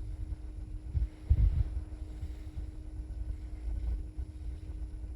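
Low rumbling on the microphone with a couple of dull thumps about a second in, over a steady low hum.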